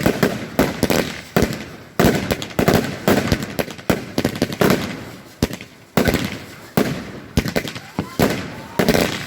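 Consumer fireworks going off in a rapid barrage: sharp bangs and cracks several times a second, each dying away in a short echoing tail, with louder blasts every second or two.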